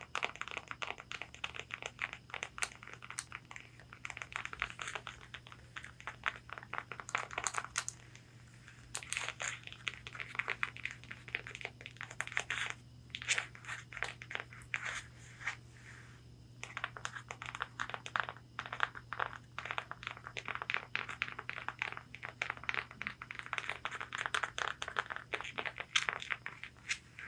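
Long fingernails tapping and scratching rapidly on a corset's fabric bodice: quick dense taps mixed with scratching, in bouts with short pauses, over a faint steady low hum.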